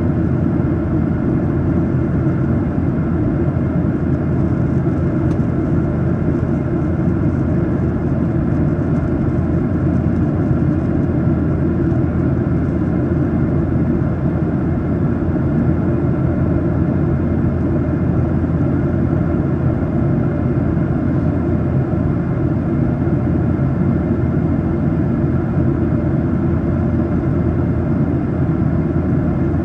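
Steady cabin noise inside a Boeing 737-800 in climb: a constant low rush of airflow and the drone of its CFM56 turbofans, even in level throughout.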